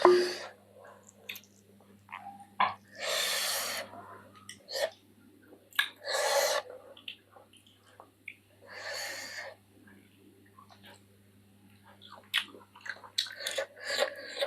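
Mouth sounds of a person eating spicy chicken feet curry with rice: scattered small chewing and smacking clicks, with three long audible breaths of about a second each.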